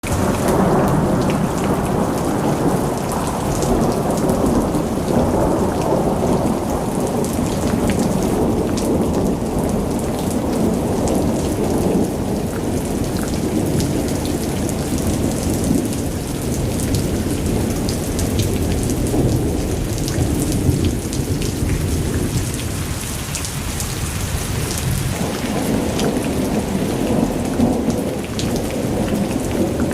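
Thunderstorm: heavy rain with a continuous low rolling rumble of thunder that eases for a few seconds about three-quarters of the way through, over fine scattered raindrop ticks.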